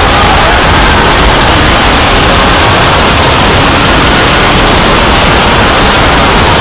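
Loud, steady hiss like static or white noise filling the whole range, with faint tones just showing through around the middle.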